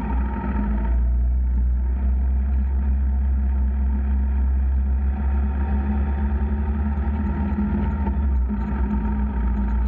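Motorcycle running steadily on the move: an even engine drone under a heavy, constant low rumble, a little louder from about a second in.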